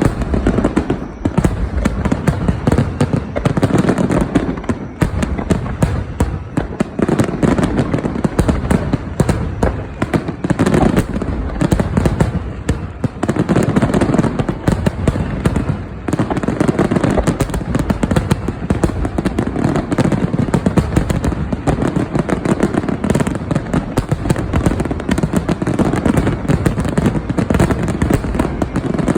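Fireworks finale: a dense, continuous barrage of aerial shell bursts, bangs and crackles overlapping with no let-up, with a heavy rumble underneath.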